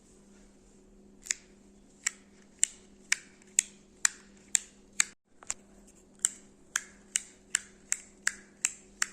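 Lego brick slider fidget toy being slid back and forth, giving sharp plastic clicks about twice a second. The clicks start about a second in, come a little faster near the end, and sound over a faint steady hum.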